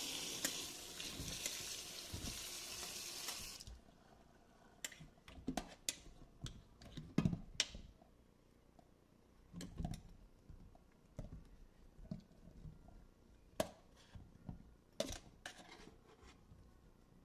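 Kitchen tap water running into the sink, shut off suddenly about four seconds in, followed by scattered clicks and knocks.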